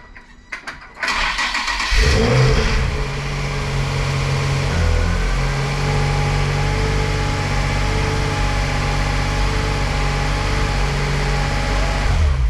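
Nissan 350Z's 3.5-litre V6 started after front-end crash damage: a few clicks, a second of cranking, then it catches with a rev flare about two seconds in and settles into a steady idle, with another brief flare partway through. The engine runs and is shut off at the very end.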